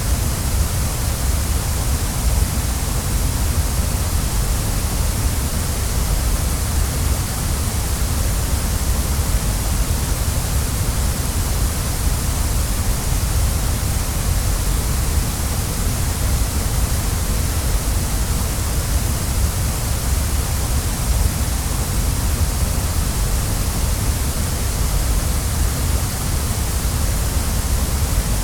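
Waterfall: a steady, unbroken rush of falling water, deep at the bottom with a hiss on top.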